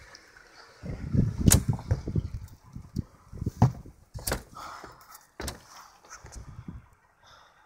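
Snow shovel working deep, drifted snow: crunching scrapes broken by three sharp knocks of the blade, stopping about seven seconds in.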